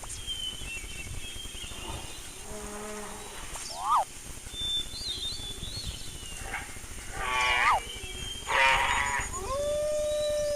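A string of animal calls: several short chirps that sweep quickly up and down, two harsh bleating calls in the second half, and a long call near the end that rises and then falls.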